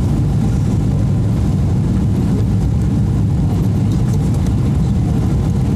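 Steady low rumble of jet engine and airflow noise heard inside the cabin of a Boeing 777-300 airliner, even and unchanging throughout.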